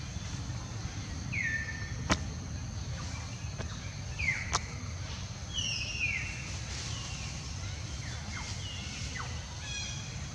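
Repeated short, high-pitched animal calls, each falling in pitch, spaced irregularly over a steady low rumble of background noise, with two sharp clicks in the first half.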